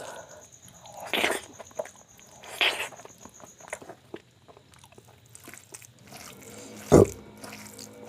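Eating sounds: a series of sudden bites and wet mouth noises with softer chewing and clicks between, the strongest near the end. A steady high, cricket-like trill runs behind them and stops about halfway through.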